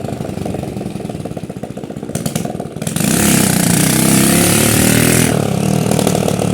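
Hero Honda motorcycle's single-cylinder four-stroke engine running with its exhaust silencer pipe broken off, giving a loud, rapid open-pipe beat like a dirt bike. About three seconds in it revs up, rising in pitch and loudness for about two seconds, then settles.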